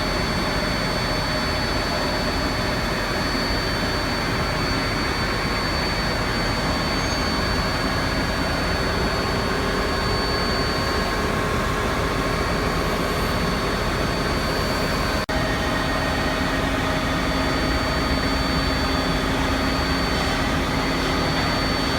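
Cincinnati Gilbert 350P CNC horizontal boring mill running: a steady mechanical hum and whine with a high steady tone over it, broken by a very brief dropout about fifteen seconds in.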